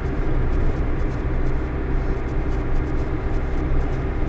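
Steady engine drone and road noise heard from inside a truck's cab while driving at about 60 km/h.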